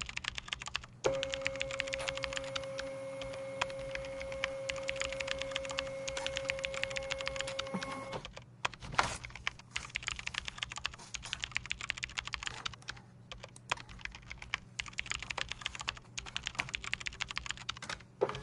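Computer keyboard typing: fast, irregular key clicks. From about a second in until about eight seconds in, a steady humming tone sounds under the typing.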